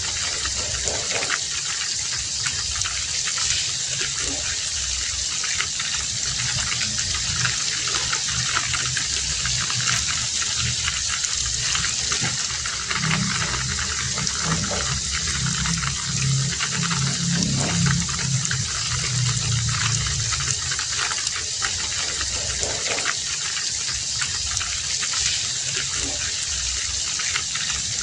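Heavy rain falling steadily, a dense hiss with many scattered sharp drop hits. A low rumble swells in the middle for several seconds.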